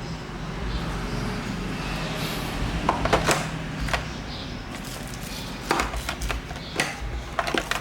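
Handling sounds from unboxing a dash cam: a series of sharp clicks and knocks in small clusters, over a steady low hum.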